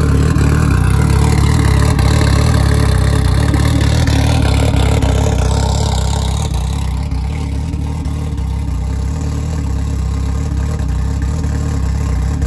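Turbocharged 4G63 four-cylinder of an AWD Mitsubishi Eclipse drag car idling, loud and steady. It eases a little quieter about halfway through.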